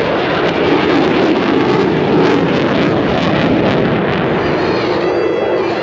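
Jet roar from the F-22 Raptor's twin F119 turbofan engines in flight: loud and steady, with a ragged crackle running through it.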